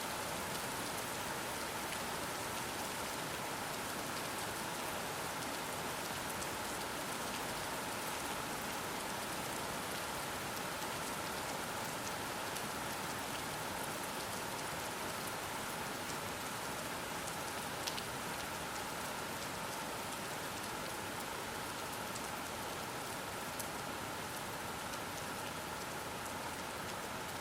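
Soft, steady rain falling: an even hiss with faint scattered drop ticks.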